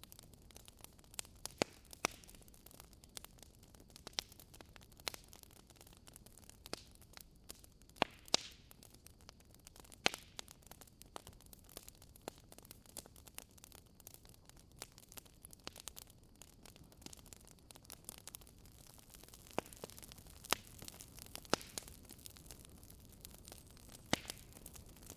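Wood logs burning in a fireplace, crackling: sharp irregular pops and snaps over a soft steady hiss of the flames.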